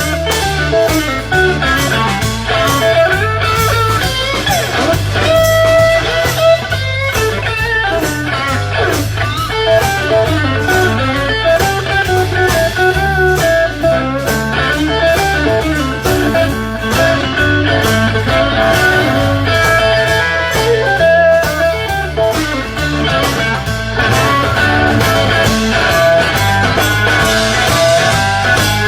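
Blues-rock band playing without vocals: electric guitar carrying the melody with held notes over bass and drums.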